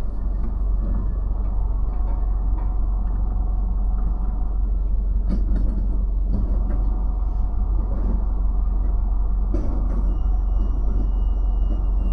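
Car driving slowly through city streets: a steady low rumble of engine and road noise, with faint ticks and a thin high tone that comes in near the end.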